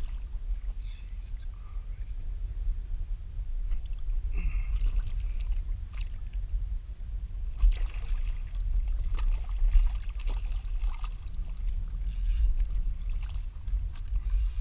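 Wind rumbling on the microphone, with scattered small knocks and clicks and a few short high-pitched chirps near the end.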